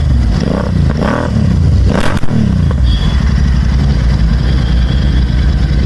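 Royal Enfield 650 parallel-twin engine breathing through an aftermarket Red Rooster exhaust, blipped in several quick revs with a sharp crack about two seconds in, then settling to a steady idle.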